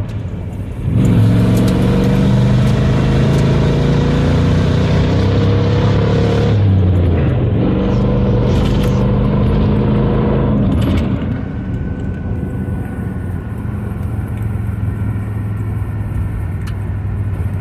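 Chevrolet single-cab pickup truck heard from inside the cab, its engine pulling under acceleration with a brief break about seven seconds in, then settling to a quieter steady drone about eleven seconds in.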